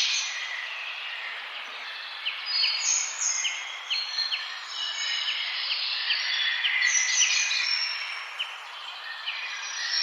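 Several songbirds chirping and singing in a forest over a steady background hiss. Through the middle there is a run of quick, short, repeated chirps, with other birds calling higher at the same time.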